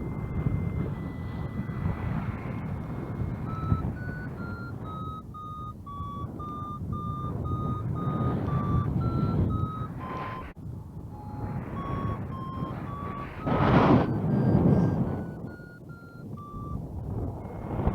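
A flight variometer beeping: a string of short electronic beeps that step up and down in pitch, signalling rising and sinking air. Wind buffets the microphone throughout, with a louder gust about three-quarters of the way in.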